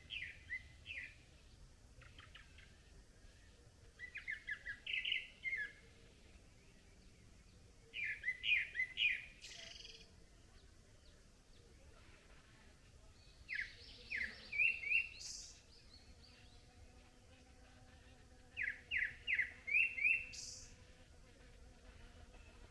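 A songbird singing in the forest: five short phrases of quick, falling whistled notes, about four to five seconds apart.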